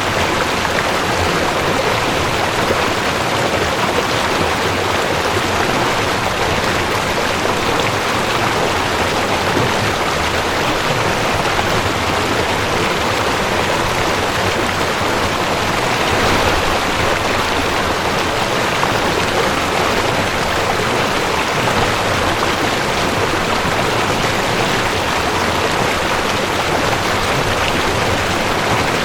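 Mountain stream rushing over rocks: a steady, even water rush with no pauses or changes.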